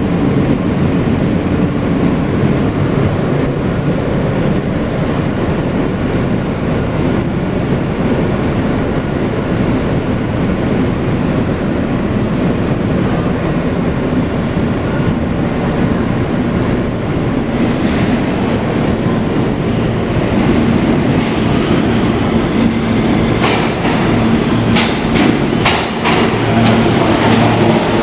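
Kawasaki R160B subway car with Siemens propulsion running between stations, heard from inside the car: a steady loud rumble of wheels on the rails. About two-thirds of the way through a steady hum comes in, and near the end a run of sharp clicks over the track joints.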